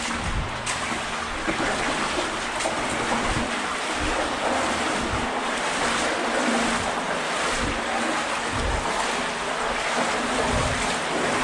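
Steady rush of water flowing through a brick culvert tunnel, echoing, with low irregular thuds of footsteps every second or so.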